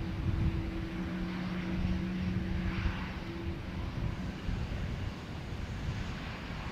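Jet airliner on its takeoff run, its engines a steady low rumble heard from a distance, with a faint hum that fades out about halfway through.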